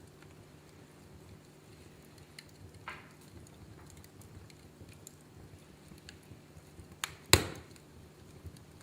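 Wood fire crackling in a fireplace: small scattered ticks over a low steady hiss, a louder crack about three seconds in, and two sharp pops close together near the end, the second the loudest.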